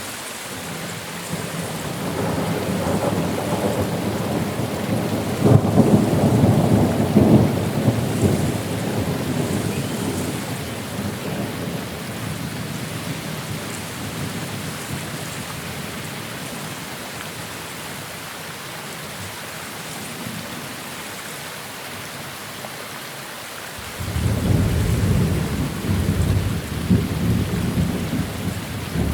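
Steady rain with two rolls of thunder: the first swells after about a second, is loudest a few seconds later and dies away after about ten seconds; the second breaks in suddenly near the end.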